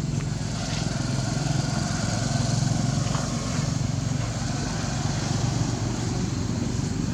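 A small engine running steadily with a low, pulsing hum.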